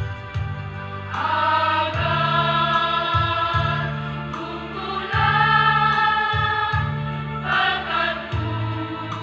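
A mixed school choir singing long held notes in unison and harmony, over an accompaniment with low sustained bass notes that change every second or so.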